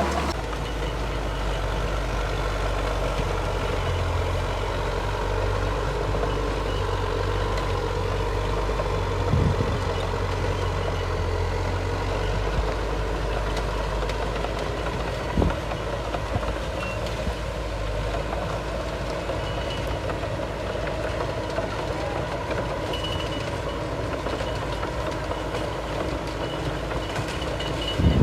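Heavy diesel earthmoving machinery, a bulldozer and dump trucks, running steadily with a deep engine rumble. A few brief knocks are heard, and short faint high beeps come now and then in the second half.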